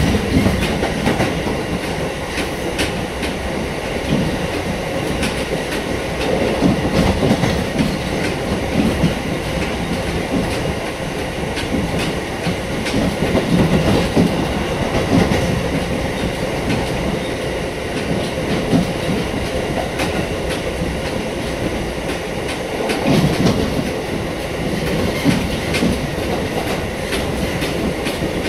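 Kotoden electric train running along the track: a steady rumble with frequent clicks of the wheels over rail joints.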